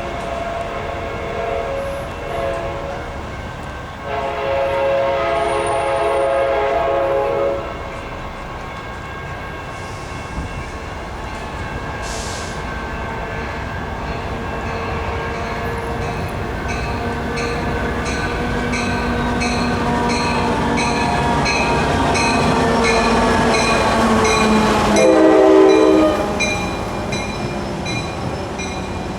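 Sounder F59PHI diesel locomotive's horn sounding two long blasts, then the train running up and past with its engine tone bending down in pitch, and a short horn blast near the end: the long-long-short pattern of a grade-crossing signal.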